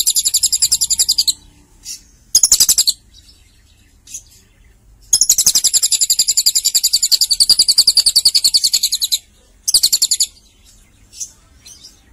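Lovebird singing long, very fast, high trills: one runs on for about a second, one about four seconds long from midway, with short bursts between them.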